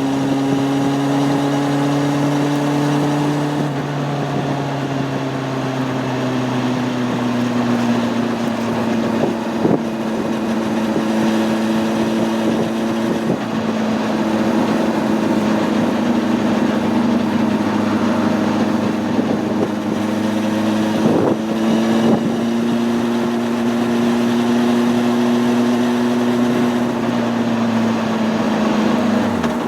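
Honda CB600F Hornet's inline-four engine running at steady road speed, its pitch easing down a little a few seconds in and then holding, with a steady hiss of wind and road noise behind it.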